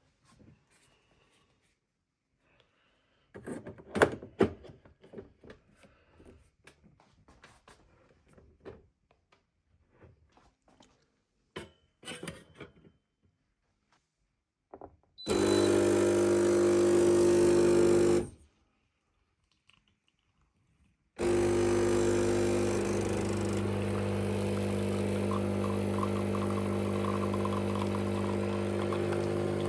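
Xiaomi semi-automatic espresso machine: scattered clicks and knocks of parts being handled, then its pump runs with a loud steady hum for about three seconds and stops. A few seconds later the pump starts again and keeps running steadily.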